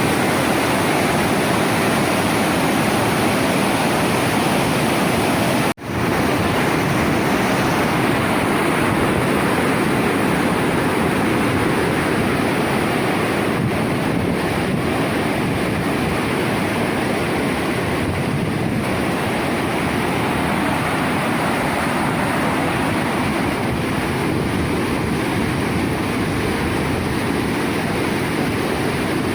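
Floodwater rushing in a steady, loud torrent, with a brief dropout about six seconds in.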